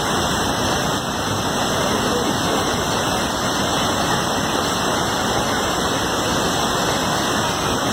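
Steady rushing of fast-flowing floodwater, an even unbroken noise.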